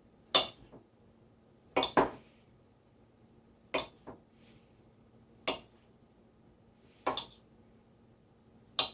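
Kitchen knife slicing down through a soft, ripe avocado and knocking on the cutting surface beneath, six cuts about every second and a half to two seconds, some with a lighter second tap.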